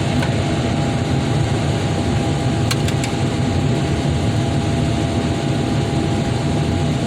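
A vehicle engine running steadily, with two or three faint clicks about three seconds in.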